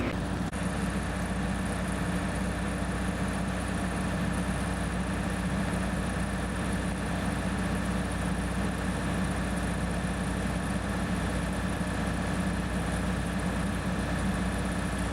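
A steady engine drone, even and unbroken, with a low hum.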